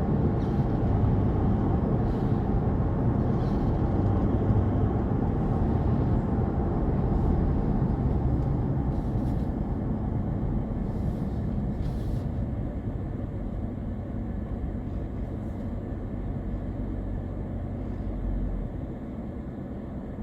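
A moving car's steady low rumble of road and wind noise, gradually getting quieter through the second half.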